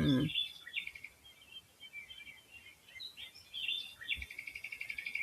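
Small songbirds chirping, with short scattered calls and a fast, even trill in the last second or so.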